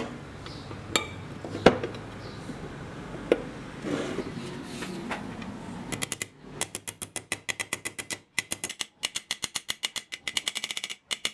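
Tools and metal parts being handled: a few sharp knocks and clinks, then a fast, even series of sharp clicks, about seven a second, through the second half.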